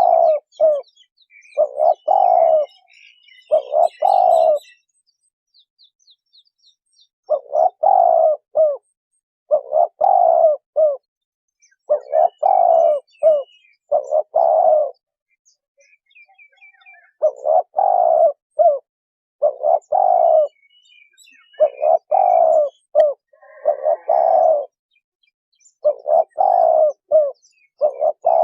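Spotted dove cooing, phrase after phrase roughly every two seconds, with two short pauses. Small birds chirp faintly in the background.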